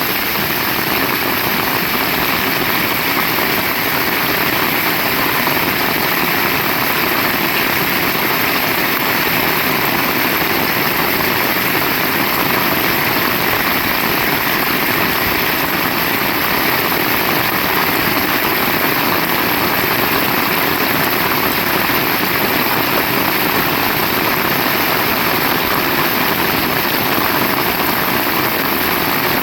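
Heavy rain falling steadily: a dense, even hiss with no break or change.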